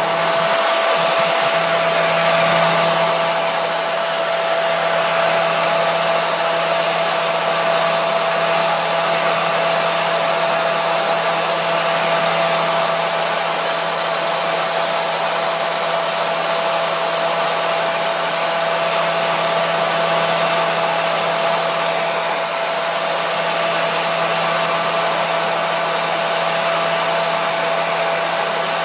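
Electric hair dryer running steadily on one setting, a constant rushing hiss of air with a steady motor hum underneath.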